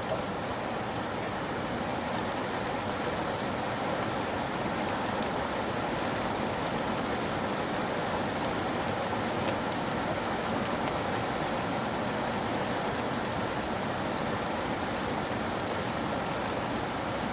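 Steady rain falling on a surface, a constant hiss with many small drop patters mixed in.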